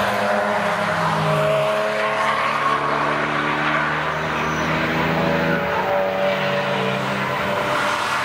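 Several cars' engines driving through a bend in a group, the engine notes overlapping and each falling and rising in pitch as the drivers lift and accelerate, over a steady rush of tyre and road noise.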